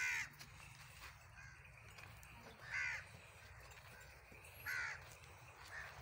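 A bird giving three short, loud calls about two seconds apart, over a low steady rumble.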